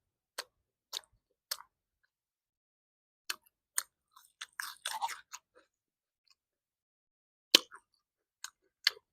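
Close-miked chewing of matar paneer with puri: short, separate wet mouth clicks and smacks with silent gaps between them. There is a denser run of smacking around the middle, and a sharper, louder click about seven and a half seconds in.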